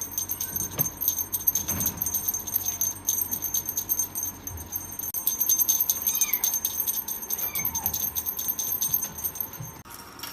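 Continuous rapid jingling, like small bells shaking, with a few short high calls about six and seven and a half seconds in; the jingling stops abruptly near the end.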